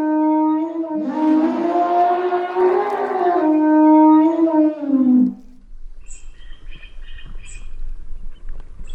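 Elephant trumpeting: long calls held on a fairly steady pitch, the last bending down and dying away about five seconds in. Then quieter bird chirps over a low rumble.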